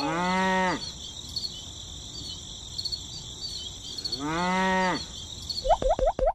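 Cow mooing twice, two short moos about four seconds apart, over steady cricket chirping. A few quick rising squeaks and clicks come near the end.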